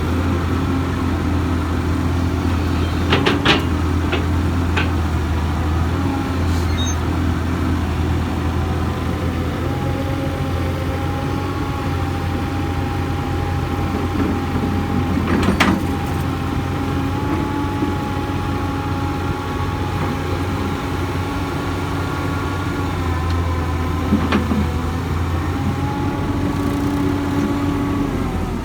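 Hyundai Robex 220-9SH excavator's diesel engine running steadily under working load, with a hydraulic whine that steps up and down in pitch as the machine works. A few sharp clanks break through, the loudest about halfway through.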